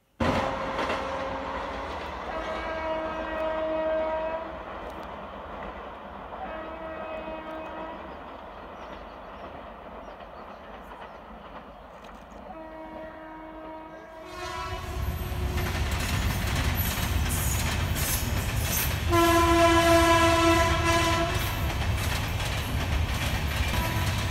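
Indian Railways express train approaching at speed: the locomotive horn sounds in several separate blasts, then from about halfway through the train passes close with a heavy rumble and wheel clatter, and the horn blows loudest a few seconds later.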